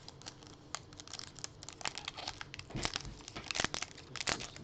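Trading card pack wrapper crinkling and tearing as it is handled and opened: a run of quick, sharp crackles that grows louder and busier about halfway through.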